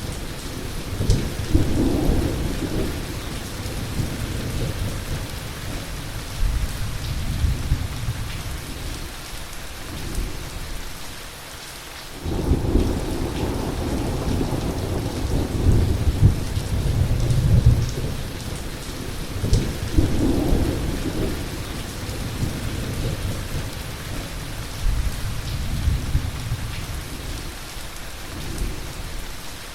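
Heavy thunderstorm: steady rain hissing over long, rolling thunder. One rumble fades out, then a new one breaks in suddenly about twelve seconds in, and another swells around twenty seconds.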